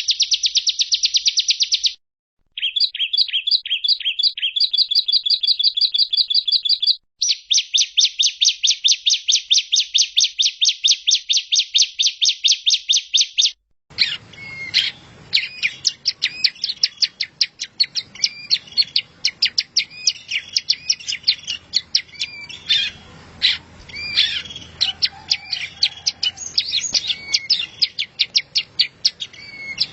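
Recorded songbird song edited into a masteran training track. For about the first half it is fast runs of repeated high notes, broken by abrupt cuts between segments. Then a different, noisier recording follows with varied chirps and trills.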